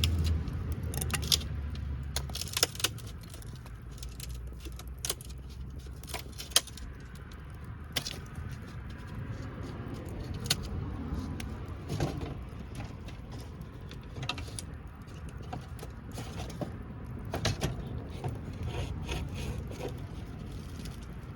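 Wood campfire crackling, with irregular sharp pops and clicks over a low steady rumble. The rumble is stronger at the start and fades over the first two seconds.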